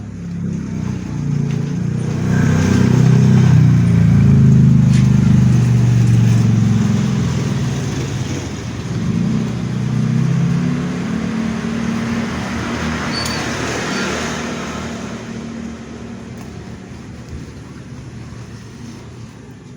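A motor vehicle engine running, growing louder over the first few seconds and then slowly fading away.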